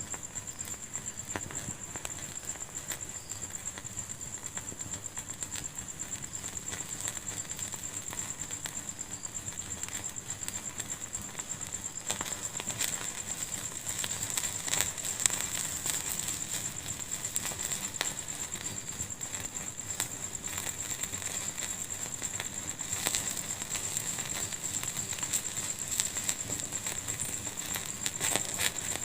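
Wood fire in a fireplace crackling, with many small sharp pops scattered throughout. The pops grow busier and louder about halfway through, over a steady thin high-pitched hiss.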